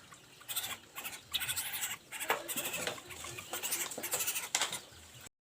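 A tame bird giving a series of short, harsh, raspy calls while it is being fed.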